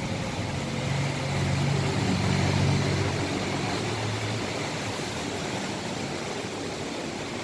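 Bus engine running as the bus pulls in: a low hum that swells, is loudest about two to three seconds in, and fades after about four seconds.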